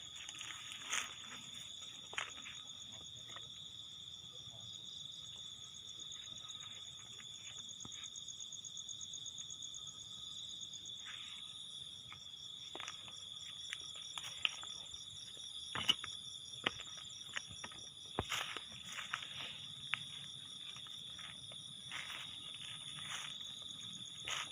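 Insects trilling steadily outdoors: one continuous high trill with a faster pulsing chirr above it. Scattered sharp clicks and rustles, loudest about two-thirds of the way through, come from someone moving through vegetation.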